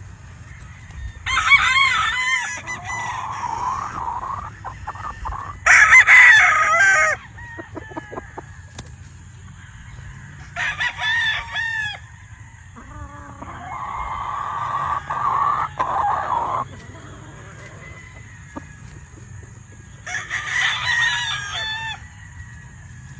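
Gamefowl roosters crowing: about five separate crows of one to three seconds each, the loudest about six seconds in, with a faint steady high-pitched whine behind them.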